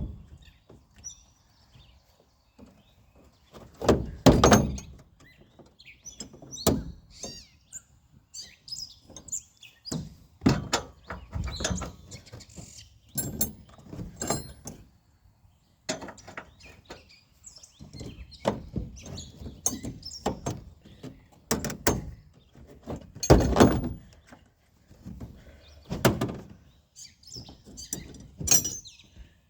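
Irregular clinks, knocks and a few heavier thuds of hand tools and sockets being handled and tried on the pickup's bed bolts.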